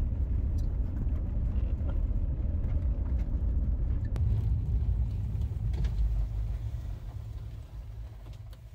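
Car driving on a gravel road, heard from inside the cabin: a steady low rumble of road and engine noise with a few faint ticks, fading toward the end.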